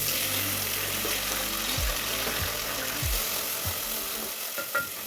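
Chopped French beans and carrots sizzling in hot oil in a pan; the sizzle starts abruptly and holds steady.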